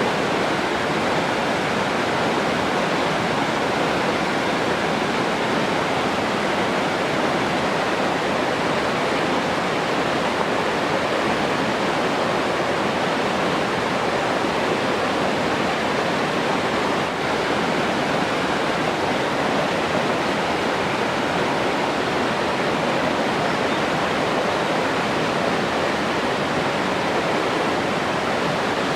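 Steady rush of running water, an even unbroken hiss.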